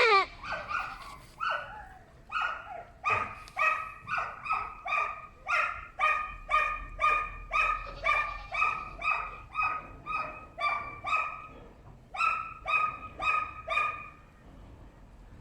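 A dog barking over and over, short high barks at about two a second, stopping about a second before the end. It opens on the tail of a loud goat cry.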